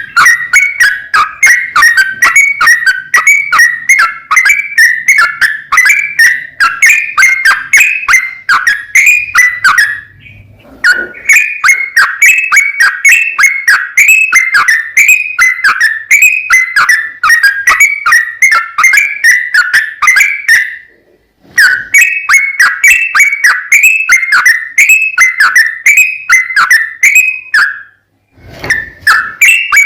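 Yellow-vented bulbul singing a long, fast 'ropel' run of short, falling chirps. The song breaks off briefly three times, about 10, 21 and 28 seconds in.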